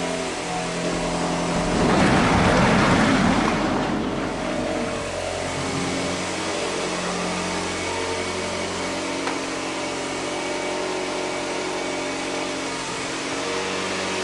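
Car engine idling steadily during its warm-up, not yet at operating temperature. About two seconds in, a louder rushing noise swells for a couple of seconds and then fades.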